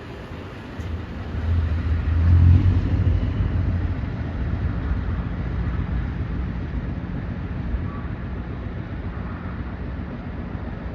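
Scania truck engine with an open, straight-piped exhaust running. It swells about a second in, is loudest around two and a half seconds in, then settles to a steady, lower running sound.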